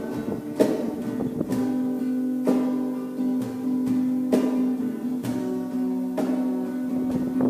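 Acoustic guitar strumming chords, each stroke about a second apart with the notes ringing on between them, in an instrumental passage of a song.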